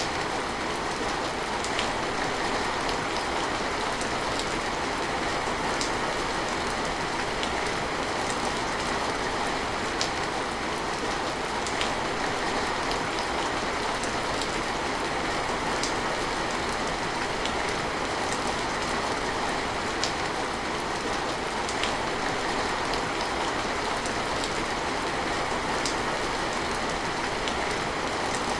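Steady rain falling, an even hiss with occasional sharper single-drop ticks every second or two.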